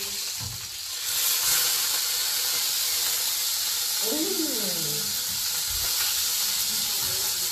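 Beef burger patty sizzling in a hot frying pan, a steady frying hiss that gets louder about a second in.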